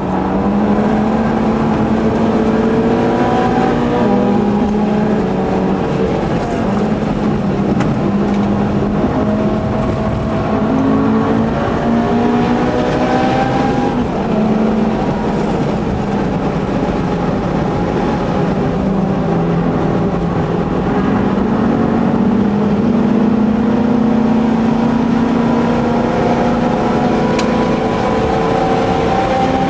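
Mitsubishi Lancer Evolution VIII's turbocharged four-cylinder engine pulling hard, heard from inside the cabin. Its pitch climbs again and again and drops back at each gearshift, over steady road and wind noise.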